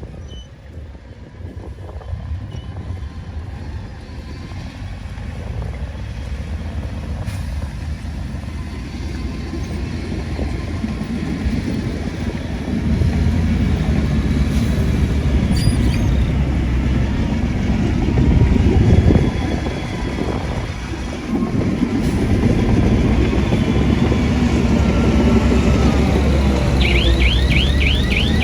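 Diesel engine of heavy earthmoving machinery running with a low rumble that builds and grows loud about halfway through, dips briefly, then comes back. Near the end a rapid, repeating electronic warble starts up over it.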